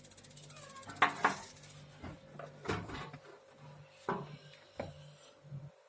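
Fresh gas water heater's electronic spark igniter ticking rapidly for about the first two seconds as the heater is run on air pressure without water, followed by a few knocks and clatters of handling. A low hum pulses on and off underneath.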